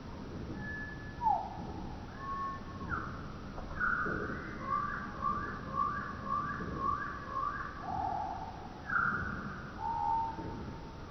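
A songbird singing clear whistled phrases: a short steady note, a falling slur, then a run of about six quick rising notes and a brief trill, over a low background rumble.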